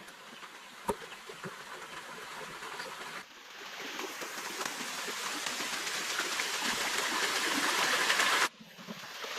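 Stream water running with a steady rushing sound that grows louder, broken by abrupt cuts about three seconds in and near the end. There is a single sharp knock about a second in.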